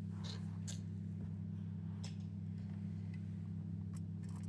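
A steady low hum with a few faint clicks and taps, as of small toys being handled.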